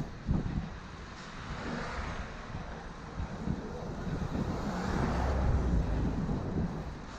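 City street traffic heard from a moving bicycle, with wind rumbling on the microphone; two vehicles swell past, about two and five seconds in.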